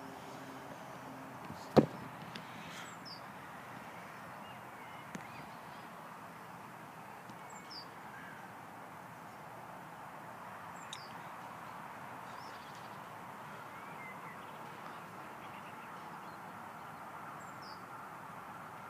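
Quiet outdoor background with scattered short, high bird calls and a faint steady hum. One sharp knock just under two seconds in, with a couple of fainter ticks later.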